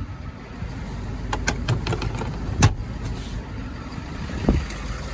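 Steady low vehicle rumble with a handful of sharp clicks and knocks, the loudest about two and a half seconds in and another near the end.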